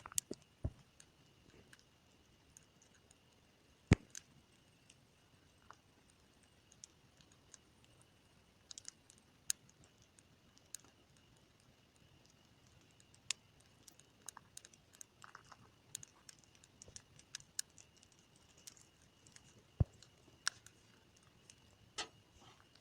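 Campfire crackling: scattered sharp pops and snaps at irregular intervals, two of them louder, about four seconds in and near the end.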